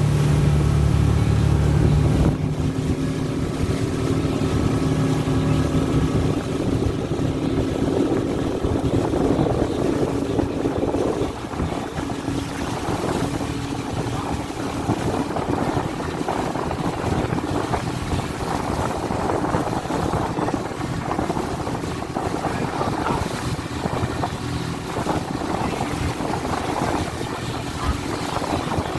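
A boat's engine running at sea, with wind and water noise on the microphone. The steady engine hum is strongest for the first couple of seconds, then a rougher rushing noise takes over with the hum fainter beneath it.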